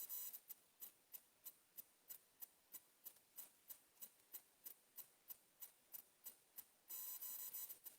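Faint, evenly spaced ticking, about three ticks a second, with an electronic beep lasting about a second near the end.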